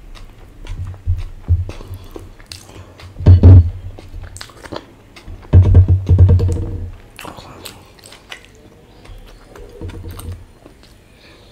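Close-miked eating sounds: chewing and many short mouth clicks, with fingers working a boiled egg on a glass plate. Two louder low-pitched sounds stand out, about three and a half seconds in and about six seconds in, the second lasting over a second.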